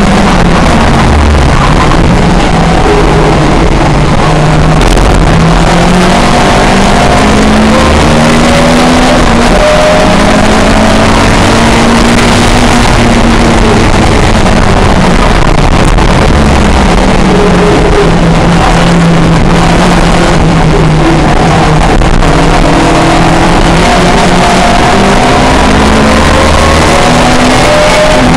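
A pre-1966 touring car's engine running hard at racing speed, its pitch climbing and dropping again and again as it goes up and down the revs, over a constant loud rush of wind and road noise.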